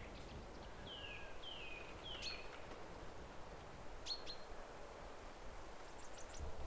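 Wild birds singing faintly: three falling whistled notes about a second in, then short sharp chirps around four seconds and again near the end, over a steady low outdoor background noise.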